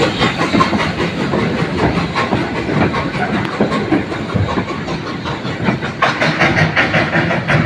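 A saddle tank steam locomotive and its train passing close by: a quick, steady clatter of wheels running over the rails.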